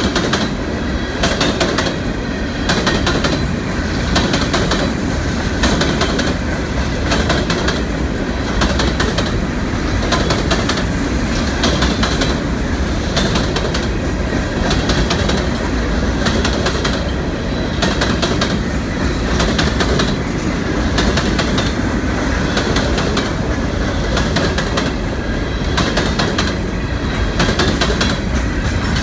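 Empty steel coal hopper cars of a freight train rolling past: a steady rumble with the wheels clicking in a repeated clickety-clack rhythm.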